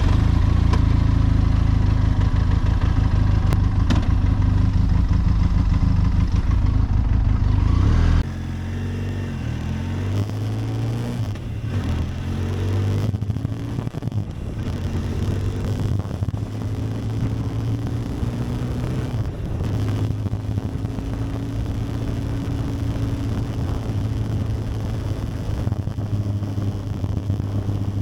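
Benelli TRK 502X motorcycle's parallel-twin engine running just after being started, loud and steady, then dropping sharply in level about eight seconds in and carrying on with its engine speed rising and falling.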